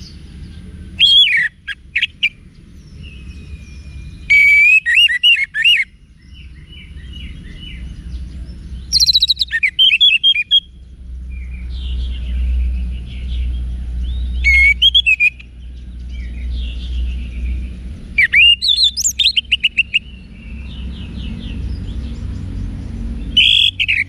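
Orange-headed thrush singing loud, varied whistled song phrases every few seconds, with softer twittering in between, over a steady low rumble.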